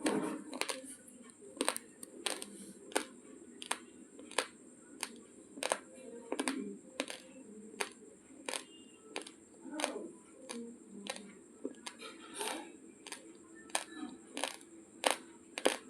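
Raw basmati rice grains being chewed, each bite a sharp crunch, about one and a half to two crunches a second in a steady rhythm.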